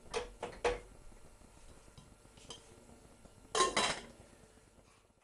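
Metal cookware clanking on a pan: two light knocks near the start, then a louder run of clanks a little past halfway.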